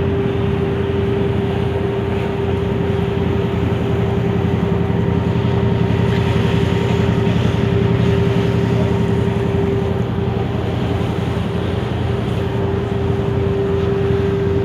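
A motorboat's engine running steadily, heard from on board: an even, loud drone with one strong humming tone.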